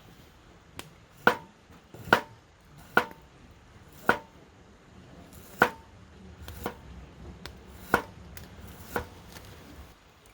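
A blade chopping in about nine sharp strikes, roughly one a second, several leaving a brief ringing tone.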